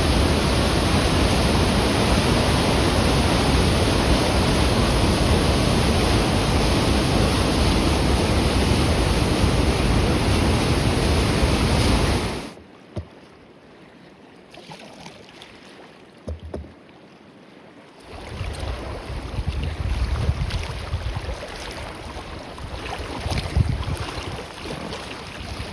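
Isaac Falls' mass of white water making a loud, steady rush, which cuts off abruptly about halfway through. A few quieter seconds with faint knocks follow, then gusty wind on the microphone and water noise on the river.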